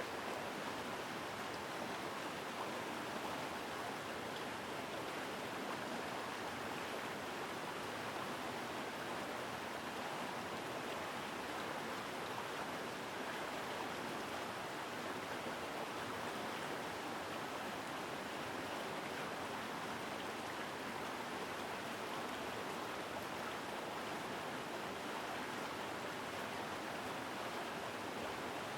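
A mountain stream's water rushing and splashing over rocks, heard close, a steady, full rush of flowing water.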